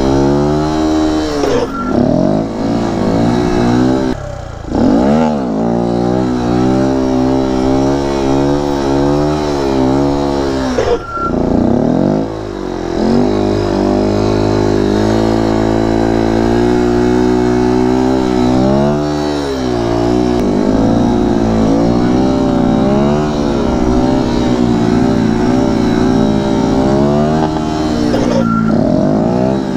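Kawasaki Z125 Pro's small single-cylinder engine revving hard under load while the bike is wheeled, the pitch rising and falling as the throttle is worked. The revs drop sharply and pick up again several times as the throttle is chopped and reopened.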